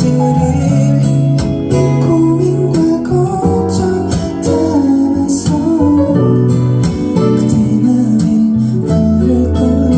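Live band performance of a slow indie song: a voice singing over guitar, with a steady bass underneath.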